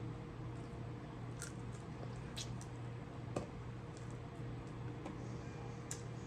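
Close-up eating of a buttery seafood boil: wet, squishy chewing and biting with a few sharp clicks, over a steady low hum.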